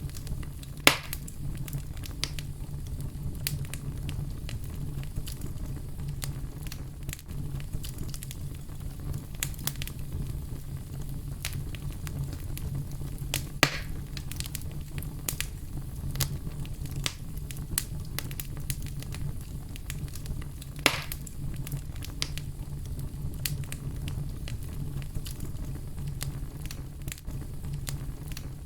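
Fireplace fire crackling: a steady low rumble with frequent small crackles, and three louder sharp pops, about a second in, near the middle and about three-quarters through.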